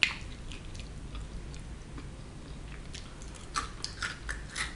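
A person biting into a crunchy snack chip with a sharp crunch at the start, then chewing it with faint scattered crunching and a few sharper crunches near the end.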